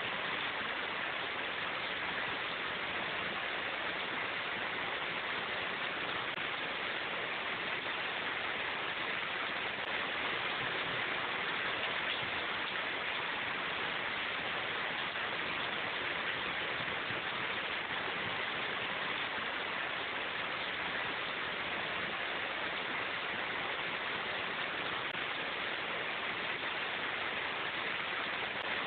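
Steady rain falling, an even hiss with no individual drops or changes standing out.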